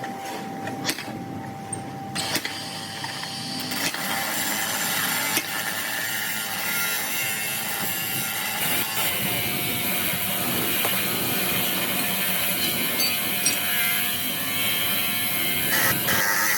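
Metalworking machinery and power tools running, with scattered clicks and knocks. The noise grows louder and denser about four seconds in and again around nine seconds in.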